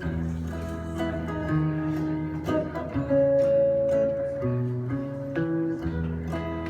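Instrumental intro of a song played live: guitar playing chords over sustained low notes, with one long held note near the middle.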